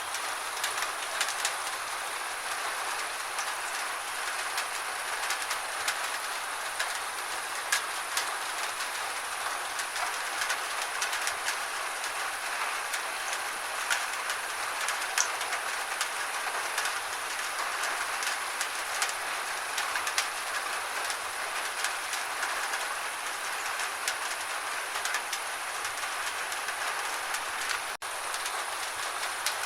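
Steady gentle rain, a constant hiss with individual drops ticking sharply on a hard surface throughout, broken by a momentary dropout near the end.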